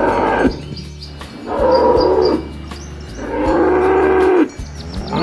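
Cattle mooing in a series of long, pitched calls. One moo ends about half a second in, two more follow, and another begins near the end.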